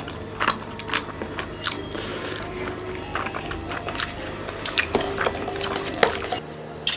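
A person eating close to the microphone: biting and chewing food, with many short, sharp crunches and clicks.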